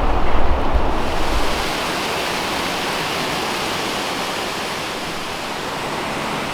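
Waterfall rushing: a steady, even roar of falling water, with a low rumble in the first second and a half.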